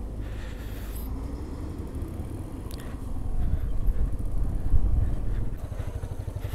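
Motorcycle engine running at low revs, with a brief rise in pitch about a second in and growing louder around the middle.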